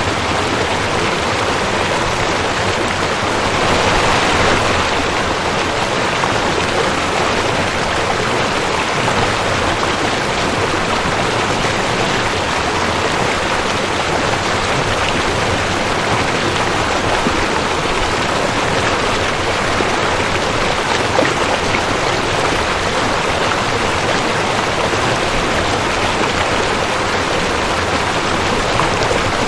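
Rushing creek: fast water running over rocks in a steady, full rush, swelling slightly about four seconds in.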